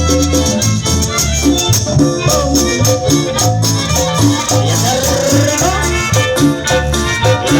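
Live music from a chanchona band, with a steady, pulsing bass line under a rhythmic dance beat.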